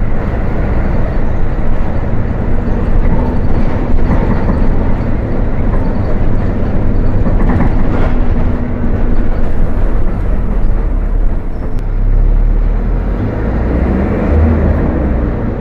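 Volkswagen 17.230 OD bus's diesel engine running as the bus drives, a steady engine note with road rumble. The level eases slightly about twelve seconds in.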